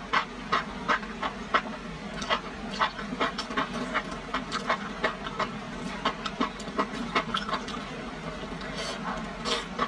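Close-up wet, sticky chewing of enoki mushrooms in chili oil: a steady run of smacking mouth clicks, two or three a second, with a couple of brighter hissing slurps near the end.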